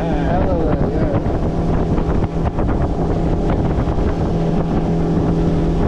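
Motorboat engine running steadily underway, a constant hum, with wind buffeting the microphone.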